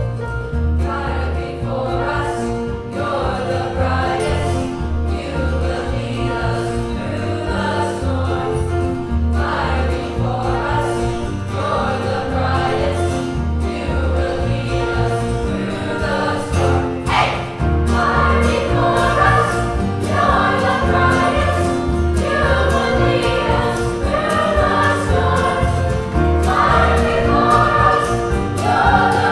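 Children's choir singing a Christian song together, with instrumental accompaniment and a steady bass line underneath.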